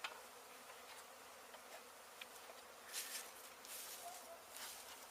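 Honey bees from an opened hive buzzing steadily, with a few short hissing bursts about three and four seconds in.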